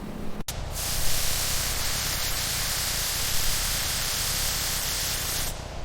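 A steady hiss like a spray or rush of air, starting abruptly about half a second in and cutting off shortly before the end, over a low background rumble.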